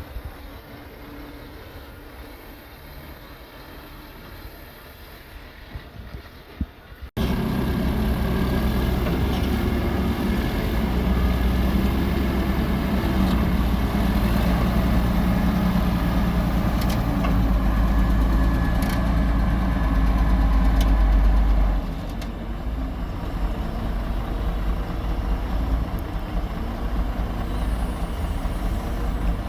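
Heavy diesel earthmoving machinery running: quieter engine noise at first, then an abrupt cut about seven seconds in to a much louder, close diesel engine with a steady low drone, which eases off somewhat about twenty-two seconds in.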